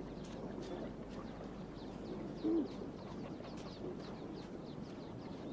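Birds calling: a few low, short calls, the loudest about two and a half seconds in, over a steady chatter of many quick, high, falling chirps.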